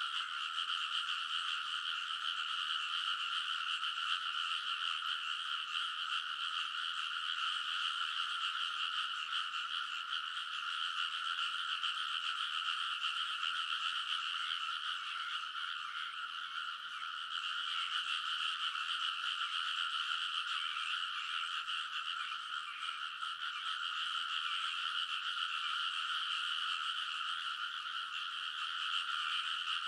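A dense chorus of many frogs calling together in a rice paddy, their overlapping calls merging into one continuous, unbroken din.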